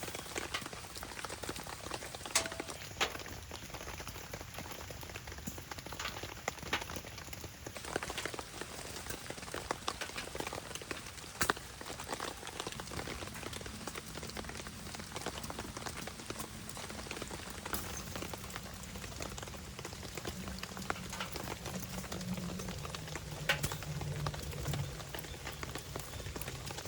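Steady rain with scattered sharp crackles and clicks, typical of a small wood fire burning in a stainless steel fire pit. A low hum comes in about halfway through.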